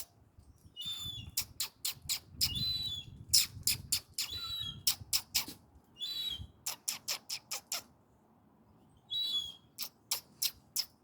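Seagulls giving short, high-pitched calls every second or two, with quick runs of sharp clicks or taps, several in a row, between them. It goes quiet for about a second about eight seconds in.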